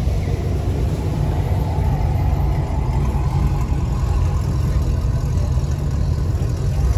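Vehicle engine idling close by, a steady low rumble.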